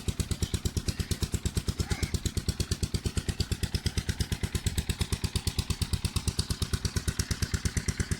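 Stationary diesel engine driving a tubewell pump, running steadily at constant speed, its firing strokes heard as an even, rapid beat of about eight pulses a second.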